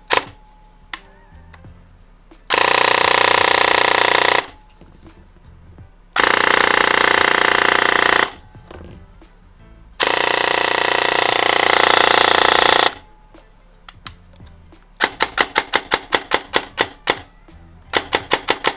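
Krytac Kriss Vector airsoft electric gun with a double-sector (DSG) gearbox firing three long full-auto strings of two to three seconds each, the shots coming so fast they run together. Near the end, a quick run of separate single shots, about five a second.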